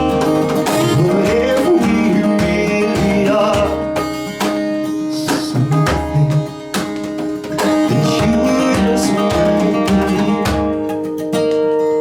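Band playing an instrumental passage: acoustic guitar strumming over a bass line, with a lead melody that slides up and down in pitch. The low notes stop near the end.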